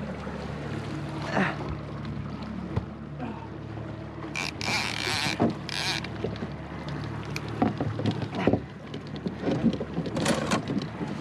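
Small boat's outboard motor idling in gear with a steady low hum, with water sloshing and a loud burst of splashing about four and a half seconds in.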